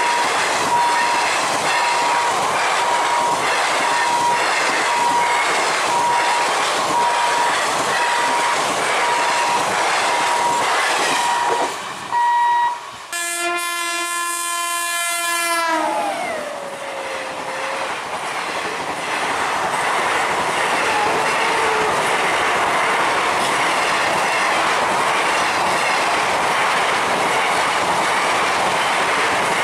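A passenger train's coaches clatter past at speed over the rails, with a regular beeping tone running alongside. After a cut, an approaching Indian Railways electric locomotive sounds its horn once for about two and a half seconds, the pitch sagging as it dies away. Its coaches then rattle steadily past.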